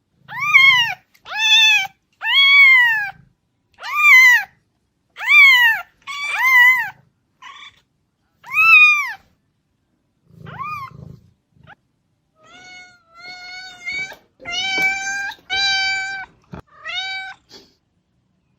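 A cat meowing over and over. About eight short meows, each rising and then falling in pitch, come in the first nine seconds. After a pause of a second or so, a run of flatter, more level meows follows.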